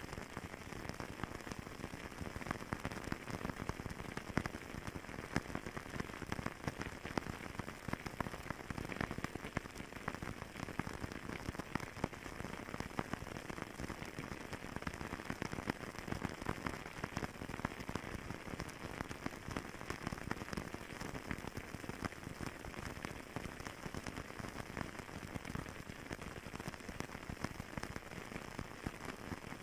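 Fireplace crackling: a steady hiss of burning with many small, irregular pops and snaps throughout.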